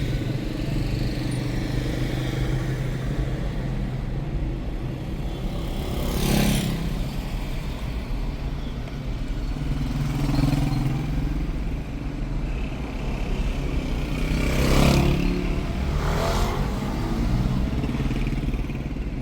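Road traffic: a steady low engine hum, with vehicles swishing past four times, about six, ten, fifteen and sixteen seconds in.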